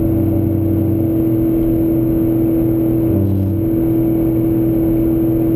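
Car engine and drivetrain droning steadily at speed, heard from inside the cabin along with road and wind noise; the engine note shifts briefly about three seconds in.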